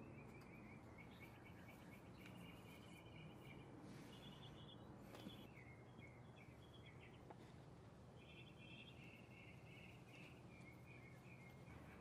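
Faint birdsong: small birds chirping in repeated short trills, one series after another, over a low steady background hum.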